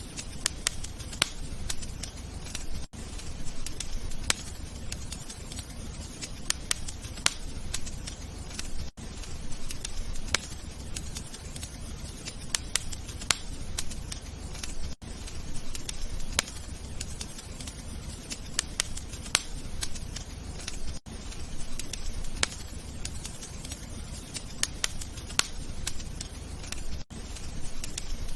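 Wood fire crackling: a steady low rumble with frequent sharp pops and snaps at irregular intervals, broken by a brief dip in sound about every six seconds.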